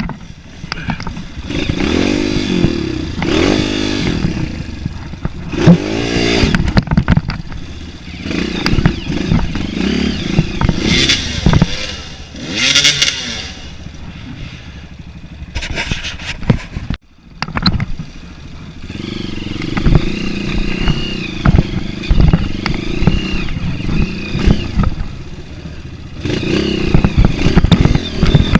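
Dirt bike engine revving up and down over and over as it is ridden along a trail. The sound drops out abruptly for a moment about two-thirds of the way through.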